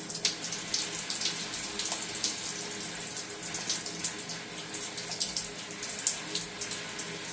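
Tap water running steadily into a sink, broken by irregular splashes as a Hahn's macaw bathes in the stream.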